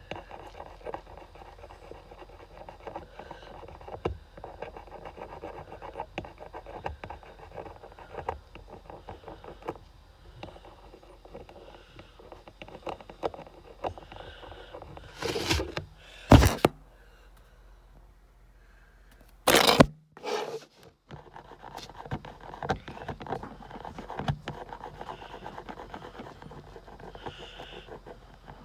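A pen tip scratching and rubbing over a small plastic logo badge as it is coloured in by hand, a dense run of faint strokes. Two loud bumps of handling a little past the middle.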